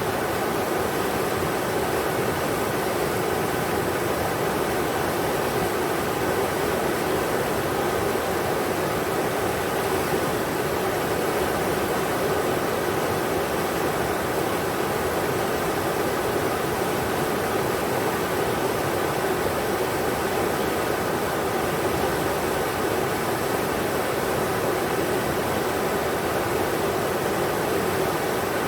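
River water rushing over rocks, a steady, even roar of white water with no breaks.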